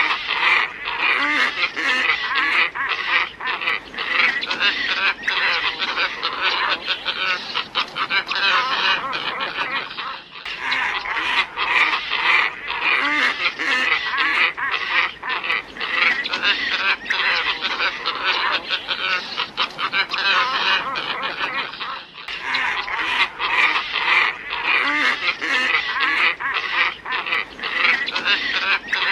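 Glossy ibis flock calling continuously in a dense chorus of overlapping calls, played as a bird-lure recording. The recording is looped: it breaks off and starts over twice, about every twelve seconds.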